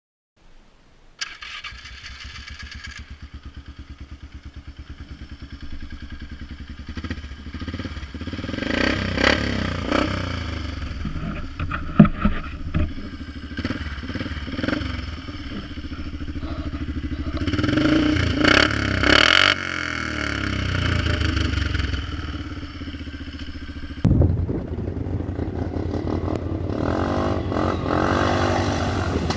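Polaris Magnum 425 ATV's single-cylinder four-stroke engine running through a DG Performance RCM-II aftermarket muffler: it comes in about half a second in, idles with an even beat, then revs up and down in bursts with some clatter and a sharp bang about halfway, and rises and falls in pitch near the end.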